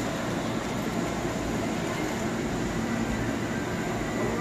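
Steady hum and hiss of a Hankyu commuter train standing at the platform with its onboard equipment running, mixed with the station's background noise.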